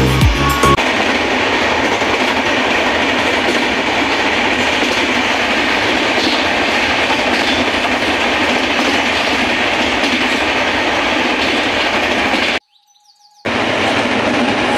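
Passenger express train running at speed, heard from inside a coach: a steady, even rush of running noise. It cuts out abruptly for about a second near the end.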